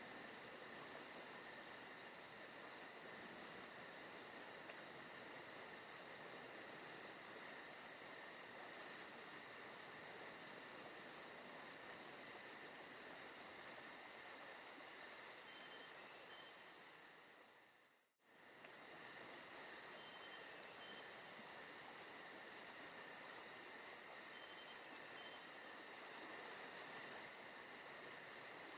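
Faint forest ambience of insects chirping steadily in a fast, even pulse. About two-thirds of the way through it fades out briefly and comes straight back.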